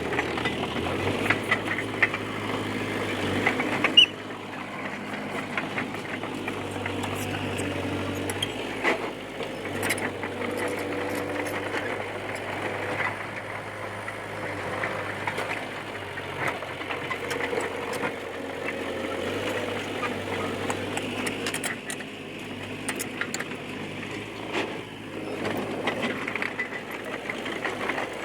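Diesel engine of a D20P crawler bulldozer running steadily, its pitch shifting a few times as the load changes, with scattered clanks and clicks throughout. A single sharp bang about four seconds in.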